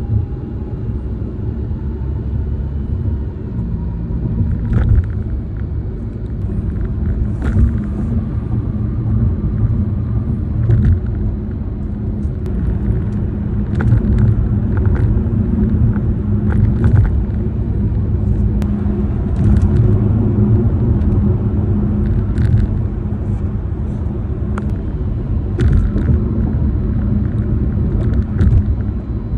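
Tyre and road noise heard inside a car driving across bridge decks: a steady low rumble with a faint hum, broken by scattered sharp clicks and rattles from worn plastic trim and the phone mount.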